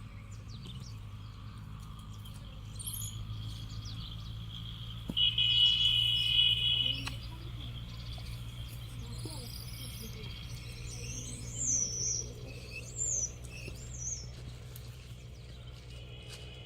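Birds chirping outdoors, with a few short falling chirps in the second half. About five seconds in, a loud high-pitched steady buzz lasts about two seconds, over a low steady hum.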